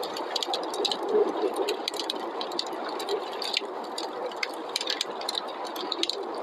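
Wood fire crackling in a fireplace, with many small sharp pops scattered irregularly, several a second, over a steady whooshing of snowstorm wind.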